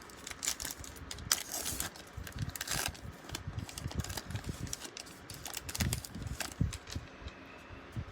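Handling of a baseball card pack: the wrapper crinkling as it is torn open, and light irregular clicks and slides as the cards are fanned through.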